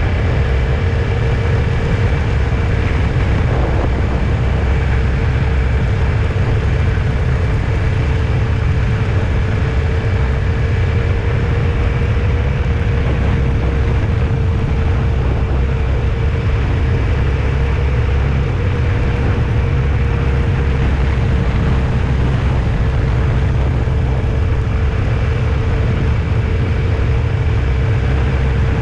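Steady running noise of a moving road vehicle: a constant low rumble with a faint steady hum over it, unchanging throughout.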